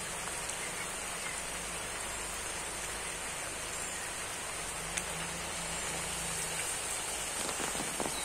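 Steady rain falling on muddy ground and foliage, an even hiss at a constant level, with one sharper tick about five seconds in.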